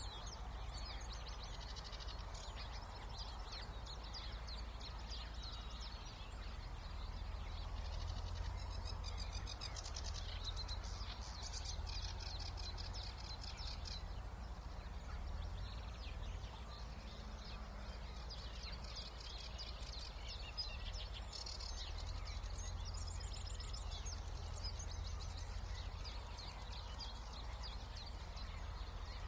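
Songbirds singing in long, rapid, chattering phrases: three bouts, near the start, in the middle and again later on. A steady low rumble runs underneath.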